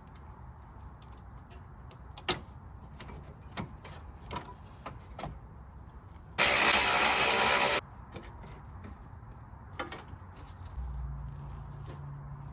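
Sharp clicks and knocks of tools and parts being handled, with a power tool run once for about a second and a half while bolts are removed.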